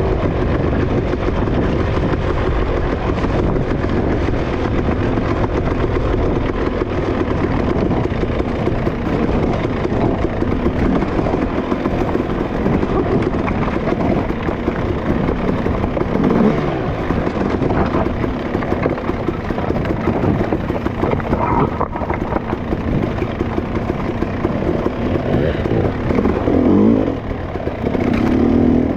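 Dirt bike engine running steadily, with the revs rising and falling once around the middle and again near the end.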